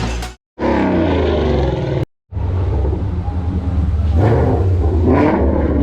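Ford Mustang V8 engine rumbling and revving, in short clips joined by abrupt cuts, one just after the start and another about two seconds in.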